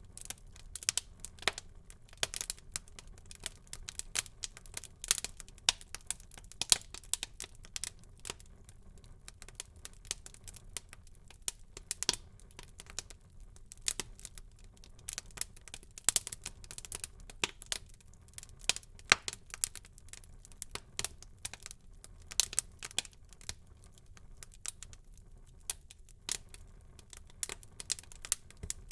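Wood fire in a fireplace crackling, with irregular sharp pops and snaps over a faint low rumble of burning.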